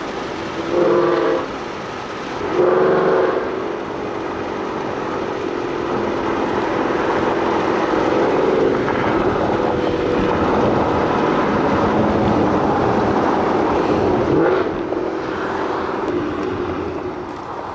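Car engine revving briefly twice, then running steadily with road noise while driving, with a short rise in engine pitch near the end.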